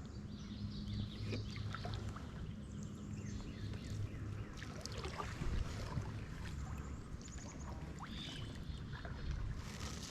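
Kayak on the water: paddle splashes and drips with scattered small knocks against the hull.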